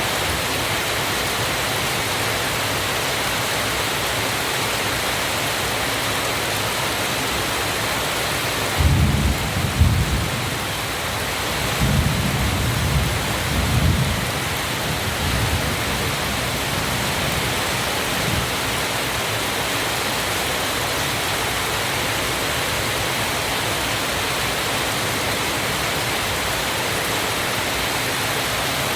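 Waterfall rushing steadily. About a third of the way in come several deep low rumbles lasting a few seconds, then the steady rush alone again.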